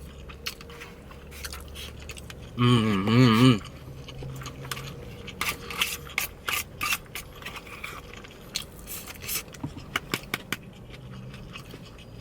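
Close-up eating sounds: a utensil scraping food from a takeout container, with scattered clicks of chewing and mouth sounds. A short, loud voice sound breaks in about three seconds in.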